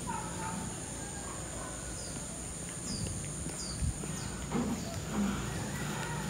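Outdoor yard ambience: a run of short, high bird chirps in the middle, over a steady high-pitched whine and a faint low rumble.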